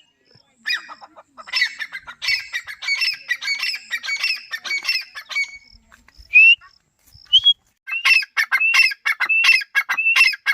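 Francolin (teetar) calling: a fast run of shrill, repeated rising notes, then two single notes in the middle, then another quick series of notes near the end.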